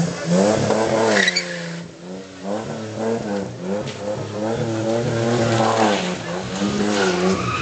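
Car engine revving hard, its pitch rising and falling over and over, as the car spins burnout donuts on the asphalt.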